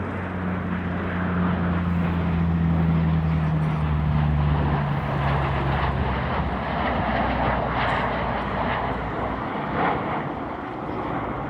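Aircraft engines running as the airplane passes on its landing approach. The low engine tone slowly falls in pitch as it goes by, under a broad rushing noise that is loudest midway.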